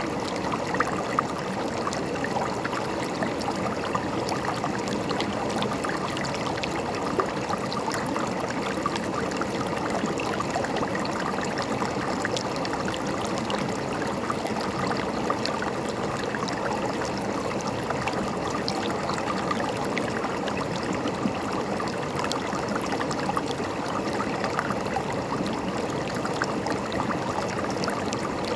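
Steady rushing and gurgling of a river's flowing water, with fine splashing crackle throughout.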